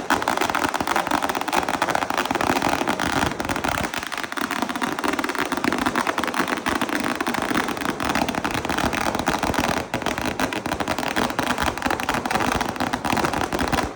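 Fireworks crackling in a dense, continuous barrage of small rapid bangs, cutting off suddenly at the end.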